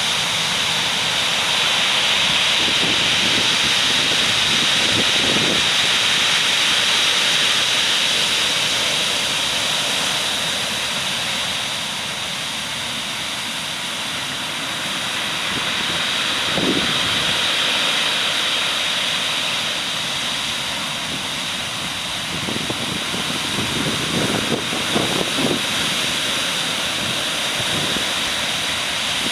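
Continuous roar of heavy typhoon surf, high waves breaking on the shore, with a few low thumps scattered through it, most of them clustered about three-quarters of the way in.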